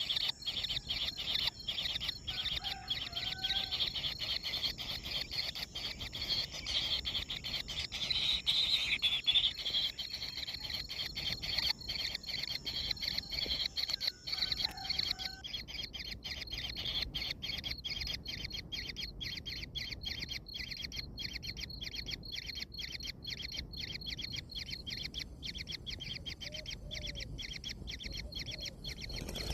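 A dense outdoor chorus of rapid pulsing calls from small animals, with its high band thinning out about halfway through, and a few faint short chirps.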